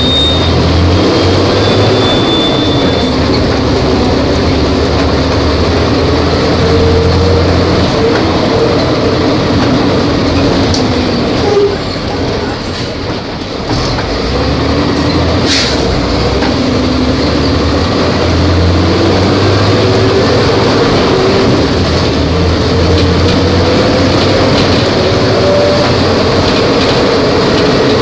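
Volvo B270F bus's diesel engine running under way, its pitch rising and falling with engine speed, with a short drop in loudness about halfway through.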